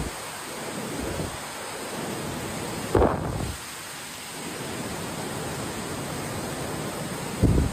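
River water rushing and falling steadily. Two brief low thumps, the louder about 3 s in and another near the end, break through the rush.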